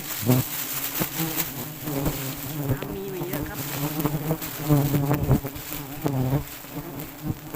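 A swarm of wild honeybees buzzing close around the microphone, the hum wavering up and down in pitch, stirred up by the cutting of their nest. A few short sharp knocks sound over it.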